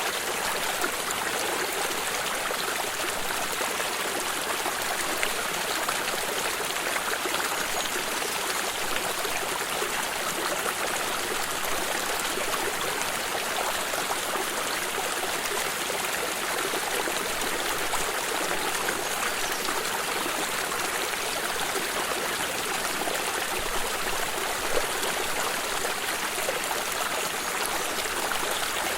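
Stream water flowing steadily, with small splashes and trickles over a constant rushing sound.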